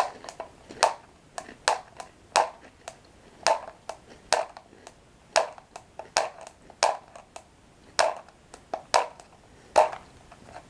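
Close-miked chewing of crunchy toasted Dip Dip Bollycao bread sticks with cocoa cream: a string of short, sharp crunches at an uneven pace of about two a second.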